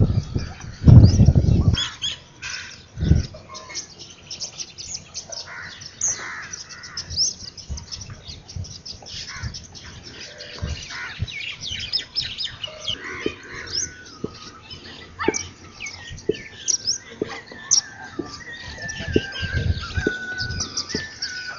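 Small birds chirping, with many quick calls one after another. A low rumble hits the microphone in the first couple of seconds, and near the end a longer call slides slowly down in pitch.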